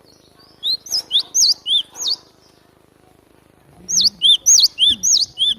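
Cinereous tit (glatik batu) singing: two bursts of about six quick, sharp, high whistled notes each, the second starting about a second and a half after the first ends. It is a recorded song played as a lure call for the bird.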